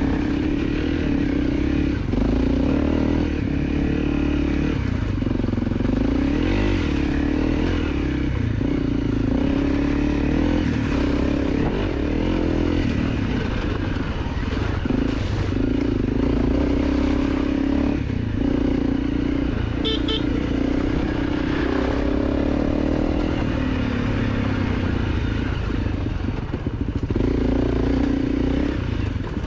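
A 250 cc dirt bike engine running steadily while riding on a rough trail, its note rising and falling slightly with the throttle, with rough rattling noise over it.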